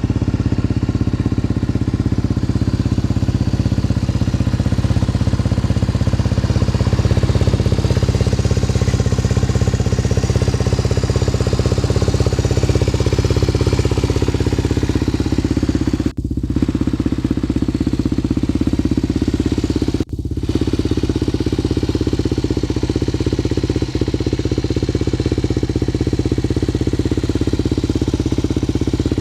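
1993 Yamaha TT250R's single-cylinder four-stroke engine idling steadily through an aftermarket OZ Works silencer. The sound cuts out for an instant twice, about 16 and 20 seconds in.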